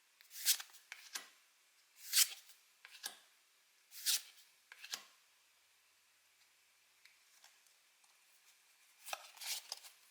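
Pokémon trading cards being handled: short papery swishes and flicks of card on card, about one a second for the first five seconds, then a few seconds of quieter rustling, and a quick cluster of them near the end.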